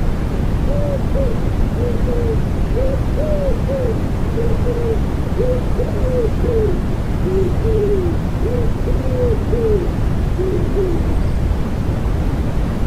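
Wood pigeon cooing: several repeated phrases of short, soft hooting notes that stop near the end, over a steady white-noise hiss.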